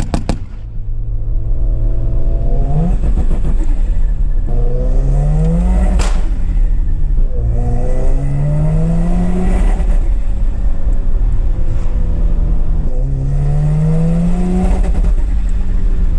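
A Mazda rotary engine runs steadily and is revved four times, its pitch climbing for a second or two each time before it falls back. One sharp click comes about six seconds in.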